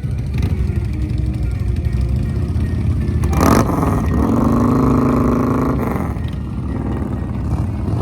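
A motor vehicle engine running with a steady low rumble. About halfway through, a brief sharp noise comes first, then a louder pitched tone is held for about two seconds.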